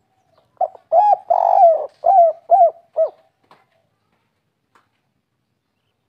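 Spotted dove (tekukur) cooing one phrase of about six coos. A long drawn coo comes in the middle and three short coos end it: the 'kuk 3' song type.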